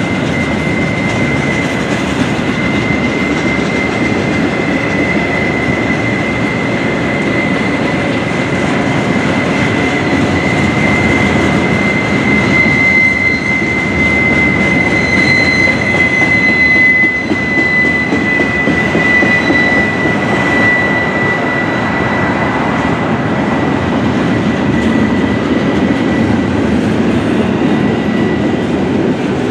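Double-stack intermodal well cars rolling steadily past on the rails, wheels clattering over the track, with a steady high-pitched wheel squeal that peaks around the middle and fades near the end.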